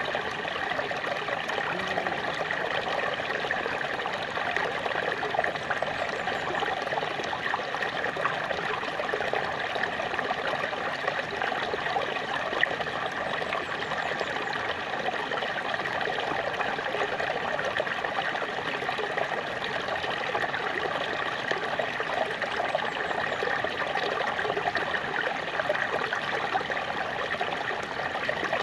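Small waterfall splashing and trickling steadily, an even rush of falling water.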